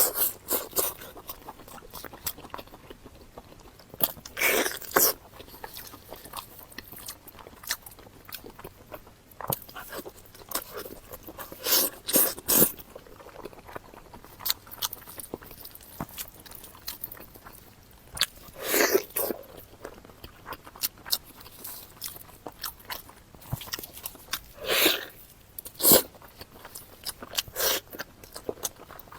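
Close-miked chewing and biting of pork knuckle: wet mouth sounds and scattered small clicks, with a few louder bites or slurps every several seconds.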